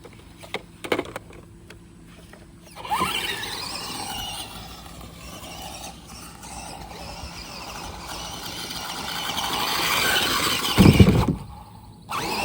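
Electric RC car driving: a wavering motor whine with tyre noise, getting louder over several seconds. It ends in a loud thump near the end as the car hits the ramp.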